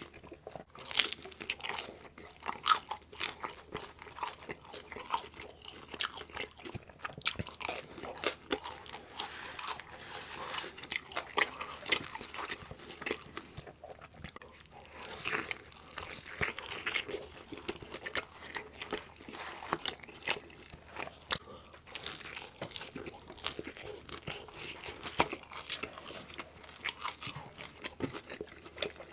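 Close-miked chewing and biting of loaded meat pizza, with irregular crunchy crackles and wet mouth sounds throughout.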